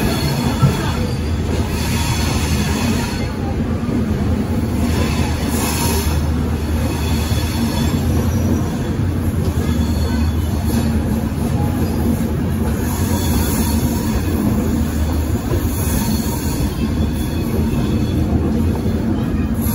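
Express passenger train pulling out of the station at low speed, heard from aboard a coach: a steady rumble of wheels on the rails, with one brief knock just under a second in.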